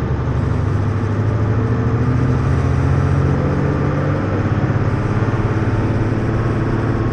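Hino U-HT2MLAA route bus's diesel engine running under way, a steady low engine drone whose tone eases slightly about four seconds in. The bus is one the uploader describes as prone to abnormal noises, sounding close to a sister bus near the end of its life.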